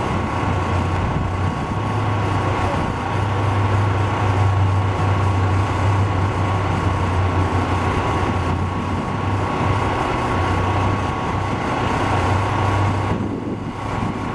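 1965 Dodge Dart drag car's engine idling as the car creeps forward to the starting line; the low engine note drops away and returns several times.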